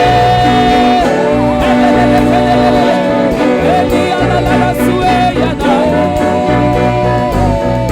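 Gospel worship music: a voice sings long held notes with small ornamental turns over a steady instrumental backing with bass.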